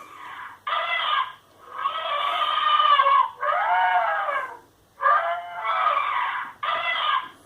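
Sagem myX5-2 mobile phone playing one of its built-in ringtones: a repeating series of loud pitched calls, each up to about a second and a half long, with short breaks between them and one call rising and falling in pitch.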